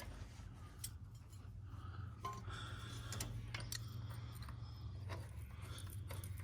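Scattered light clicks and taps of hand tools on metal parts, from work on a tractor's brake pedal linkage, over a faint steady low hum.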